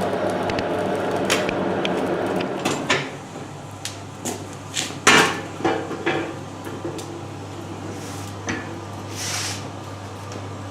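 A steady rushing noise that stops about three seconds in, followed by scattered light knocks and clinks of metal tools working a hot piece of stainless steel, over a low steady hum.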